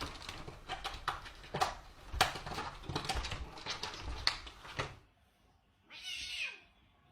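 Domestic cat meowing amid a clatter of sharp knocks and scuffles. The sound cuts off about five seconds in, then comes one short cry that falls in pitch.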